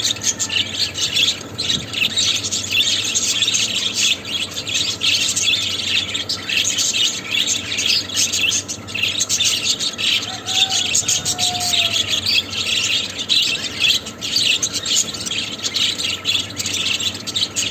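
Budgerigars chattering in a continuous, rapid stream of high chirps and warbles, with two brief lower whistled notes about ten seconds in.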